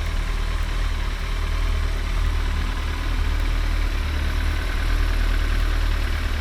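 Kawasaki ZX-14R's inline-four engine idling steadily through its stock exhaust, a deep even rumble, heavily distorted by the camera microphone.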